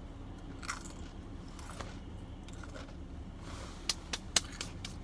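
Chewing on a bite of sandwich, soft and muffled, over a low steady rumble. About four seconds in come a few sharp clicks and crackles as something on the passenger seat is handled.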